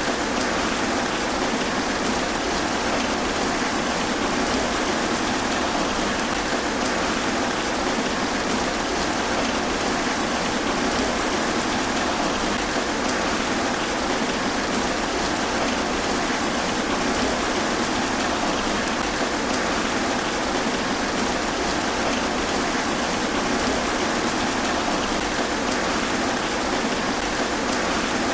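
Steady, even rain falling through trees, a constant hiss of drops on leaves.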